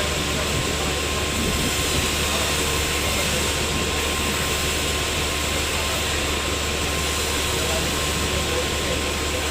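Sawmill machinery running steadily: a constant, even machine noise with a faint steady whine that does not change.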